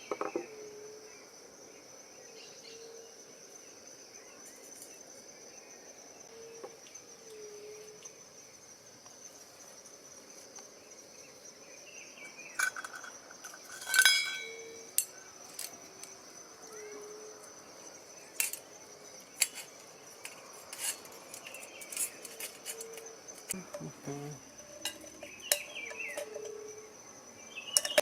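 Insects, crickets, keeping up a steady high-pitched drone, with scattered sharp clicks and knocks. About halfway through there is one louder ringing clink, like metal or glass being struck.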